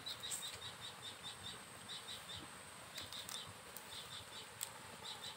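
A bird chirping in short runs of quick, high, evenly spaced notes, about five a second, in several bursts. A few faint clicks of food being peeled and eaten by hand come through underneath.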